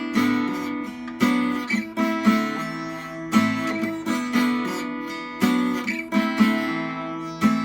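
Acoustic guitar strumming a repeating chord pattern with hammer-ons, each strum followed by the chord ringing on.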